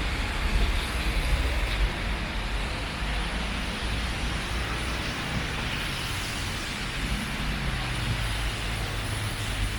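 Steady rain and road-traffic noise with a low rumble.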